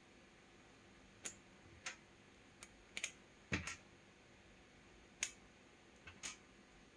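A few irregular light clicks and taps, about eight in all, with the loudest about halfway through carrying a dull knock.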